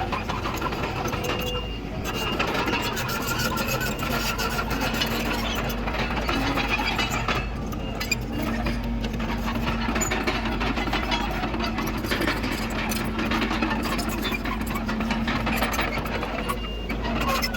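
Komatsu D31PX crawler dozer's diesel engine running steadily under work, with a rapid mechanical clatter over it.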